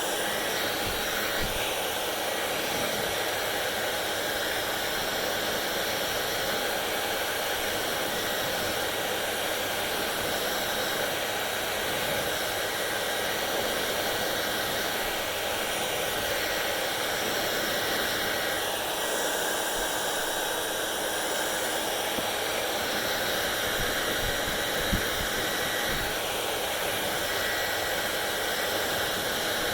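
Hair dryer running steadily: a constant blowing rush of air with a faint high whine from the motor.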